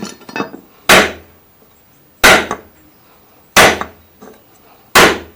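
Four sharp, evenly spaced knocks, about a second and a half apart, from striking the air-conditioning belt tensioner pulley on the bench to drive packed grease down into its dry bearing.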